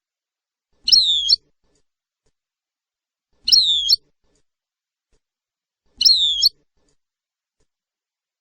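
A bird call repeated at an even pace, three times: each is the same short, high two-part chirp lasting about half a second, falling then flicking up at the end, with silence between calls.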